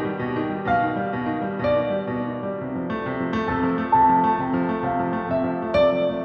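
Piano music: single melody notes struck about once a second over held lower notes.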